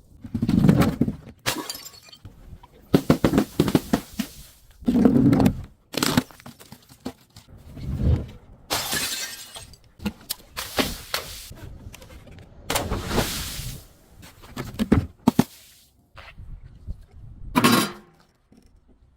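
Glass bottles breaking one after another: about a dozen separate shattering crashes with short gaps between them.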